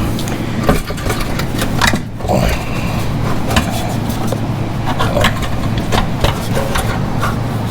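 Irregular metal knocks, clanks and scrapes as the old cat-back exhaust of a Polaris Slingshot is worked loose, over a steady low hum.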